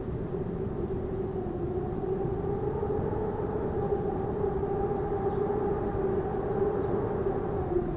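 Wind howling: a steady low whistling howl over a rumbling rush of wind, the howl dropping away near the end.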